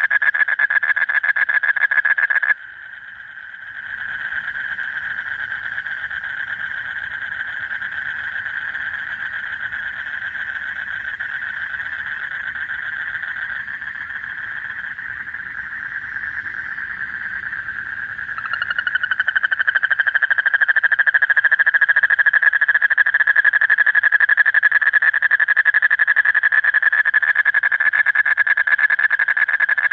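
Male common Asian toad giving its long, rapid breeding trill, a steady pulsed call used to attract a female. Loud at first, it drops a couple of seconds in, returns quieter, then grows loud again about two-thirds of the way through.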